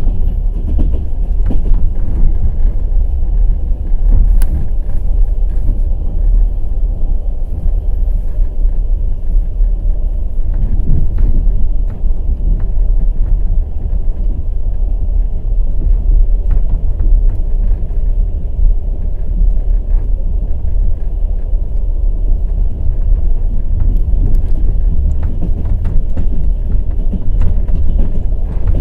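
Night express passenger train's wheels running on the rails, a steady low rumble with scattered sharp clicks of wheel clatter.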